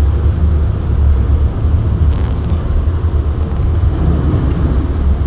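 Car driving through floodwater covering the road, heard from inside the cabin: a steady, loud low rumble with a rushing hiss of water thrown up by the tyres.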